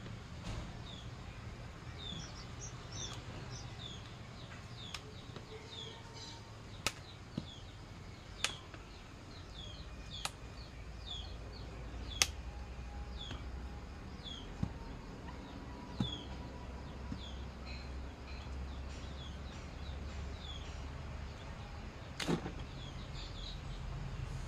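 A bird repeating short, high, falling chirps about two a second, fading out about two-thirds of the way through. Over it come several sharp snaps as a rubber grip is worked onto a cricket bat handle by hand, the loudest a little after halfway, against a low outdoor rumble.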